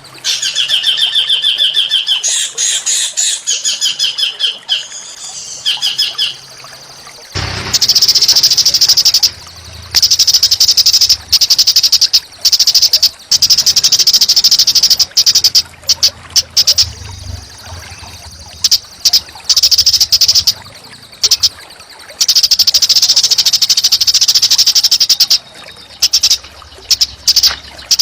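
A small songbird singing loud, harsh, rapid chattering phrases broken by short pauses. At first the notes are pitched trills; about seven seconds in the song switches to long bouts of high, buzzy chatter.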